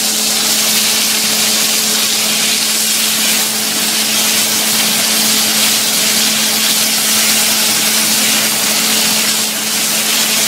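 Bite-sized chicken pieces frying in sesame oil in a hot nonstick skillet and being stirred with a spatula: a loud, steady sizzle with a steady low hum underneath.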